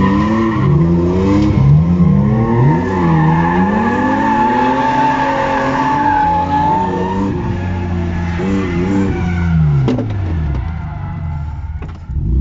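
BMW E36 cars drifting in tandem: engines revving up and down on the throttle over a long, steady tyre squeal. The squeal fades out after about seven seconds, and the engine note drops away briefly near the end.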